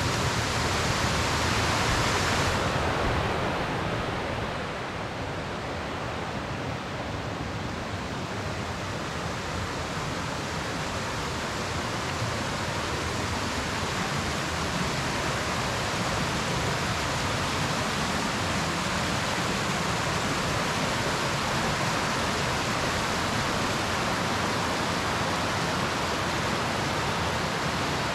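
Waterfall: a steady rush of falling, splashing water, its hiss easing a little about three seconds in.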